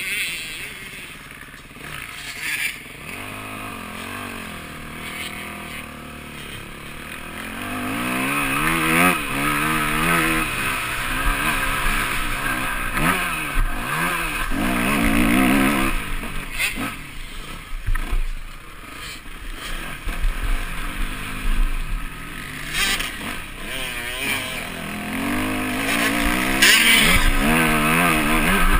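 Yamaha motocross bike engine heard from an onboard camera, revving up and falling back again and again as it accelerates and shifts. It is quieter for the first several seconds, then louder and busier from about eight seconds in, with a steady rush of wind and a few sharp knocks.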